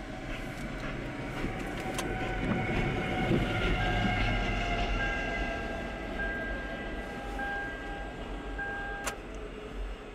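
A CSX diesel-hauled freight train passing close by, its locomotive and cars giving a steady rumble. A thin high steady tone sounds from about four seconds in and cuts off suddenly near nine seconds.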